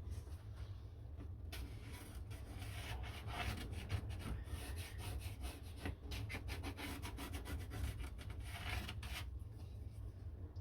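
Quick rubbing, scraping strokes on wood, coming thickest from about two seconds in until about nine seconds, over a low steady hum.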